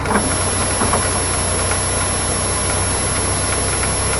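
Cessna 152's four-cylinder Lycoming engine running steadily at low power while the aeroplane taxis.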